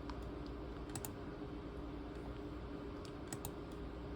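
A few sharp clicks from a ThinkPad T23 laptop's keys or buttons, a pair about a second in and another pair later, over a steady low hum.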